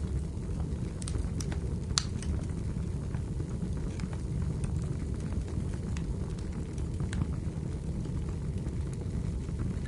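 Wood fire burning in a fireplace: a steady low rumble with scattered crackles and pops, the sharpest pop about two seconds in.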